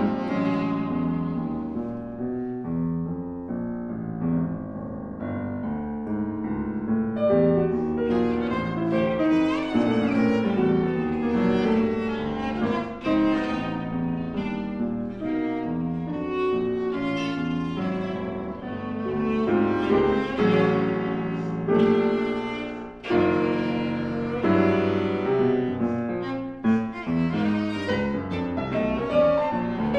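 Viola and piano playing chamber music together, the viola's bowed melody over sustained piano chords.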